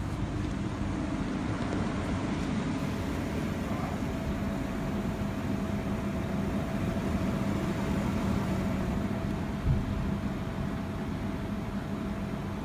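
A single dull, low boom from afar about ten seconds in, one of the repeated night-time booms of unknown origin, over a steady background hum.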